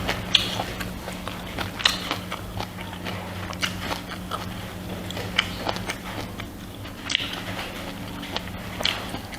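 Close-miked chewing and biting: a person eating rice with pork, with irregular wet smacks and small clicks a few times a second, over a steady low hum.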